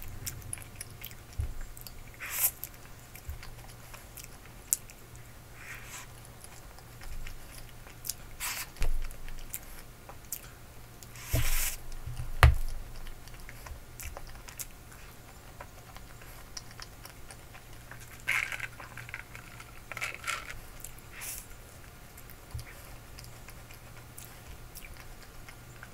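Close-up eating sounds: chewing and biting soft, cream-covered waffle, with scattered short clicks of a metal fork against a wooden tray. The loudest is a sharp click about halfway through.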